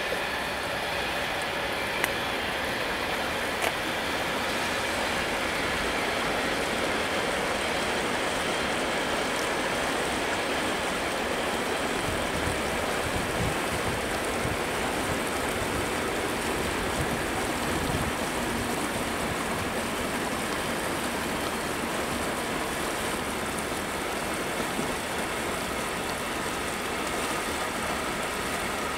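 Intermodal container freight train hauled by a Siemens Vectron electric locomotive rolling past, its wagon wheels on the rails making a steady rushing rumble, with a couple of brief clicks about two and four seconds in.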